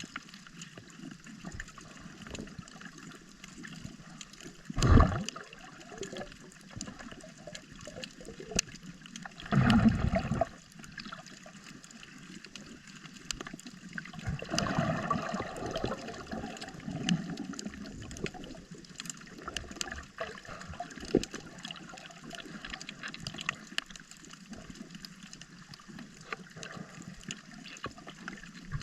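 Shallow seawater sloshing and gurgling around the camera, with many small clicks throughout and two louder, deeper surges about five and ten seconds in.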